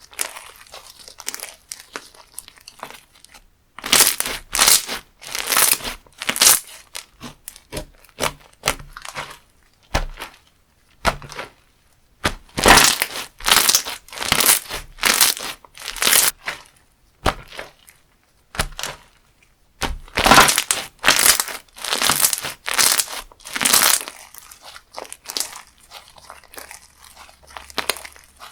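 Textured slime being squeezed and pressed by hand, giving crunchy, crackly squishes in three runs of quick squeezes, about two a second, with quieter crackling between them.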